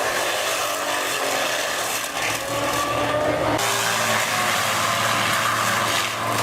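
Engine-driven machinery running steadily while cutting wood, with a low engine hum under a noisy grinding sound. The sound changes abruptly about three and a half seconds in.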